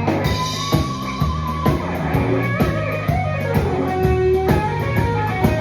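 Electric guitar playing rock lead lines with held notes, one sliding up and sustained near the start, over a steady drum beat. The guitar is heard through a compact 60 W hybrid power amp with an EF95 mini pentode valve and class-D output, into a Celestion speaker.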